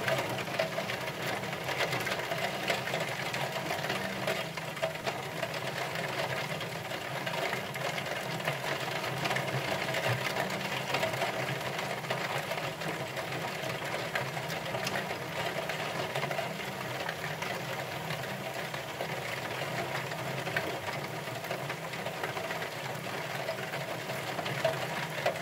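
Thunderstorm rain pattering on a window pane: a steady, dense run of small drop clicks over a constant hiss.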